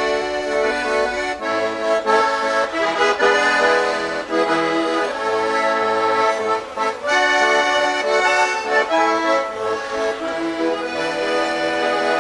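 Accordion music: a tune played over held chords.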